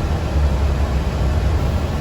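Steady low rumble and road noise inside a moving city bus or trolleybus.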